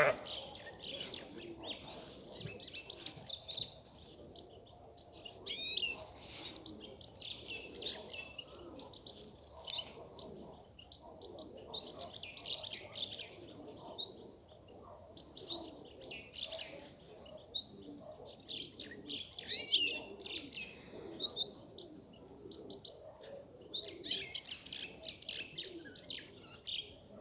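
Long-tailed rosefinch calling: short, high chirps repeated irregularly, with a few brief rapid trills.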